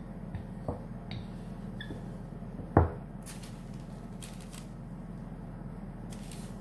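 Handling noises at a work surface: a few light knocks and one louder knock about three seconds in, as tools or small objects are set down, followed by short rustles, over a steady low hum.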